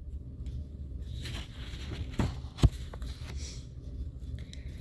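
Two short knocks about half a second apart, near the middle, over a steady low hum.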